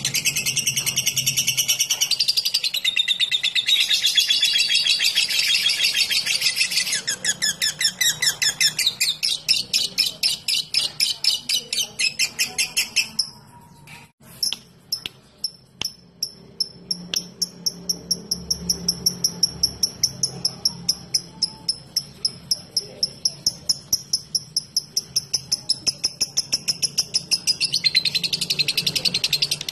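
Lovebird giving its long rapid chattering trill (ngekek), which breaks off a little before halfway, then resumes as a long run of evenly spaced, quick ticking notes (ngetik) that thicken back into the dense trill near the end.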